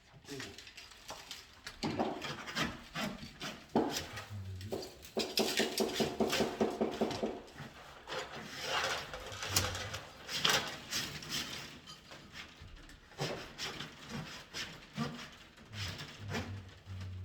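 Hand-tool work on an electrical wiring practice job: rubbing and scraping with scattered clicks and knocks, and a short buzz about five seconds in.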